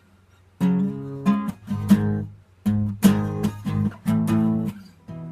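Acoustic guitar strummed in chords, a run of strokes starting about half a second in, the last chord ringing on more quietly near the end.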